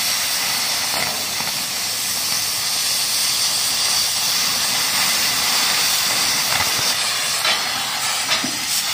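Oxy-fuel cutting torch hissing steadily as its oxygen jet cuts a hole through a steel plate, with a few faint clicks over the hiss.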